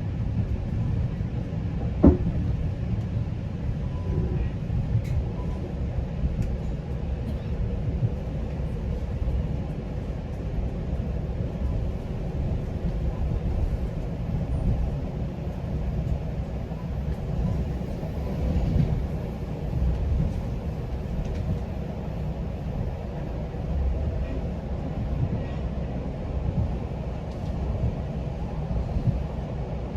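GO Transit bilevel passenger train in motion, heard from inside a coach: a steady low rumble of the wheels on the rails, with one sharp knock about two seconds in.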